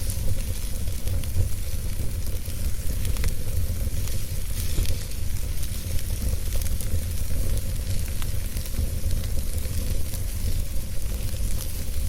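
Wood fire burning, with a low steady rumble and a hiss, crackling in scattered sharp pops.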